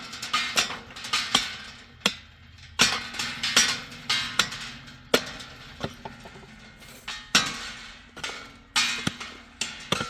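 Hand tool striking stone or brick again and again, in quick irregular clusters of sharp knocks with short pauses between them.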